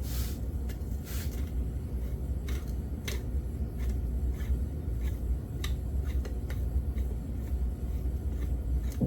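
Light, scattered clicks and taps of small metal bolts being handled and set by hand into a Yamaha YZ80 engine's case cover, over a steady low hum.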